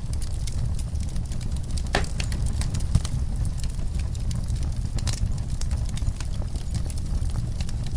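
Wood fire burning in a fireplace: a dense run of irregular small crackles and snaps over a steady low rumble, with a sharper pop about two seconds in and another about five seconds in.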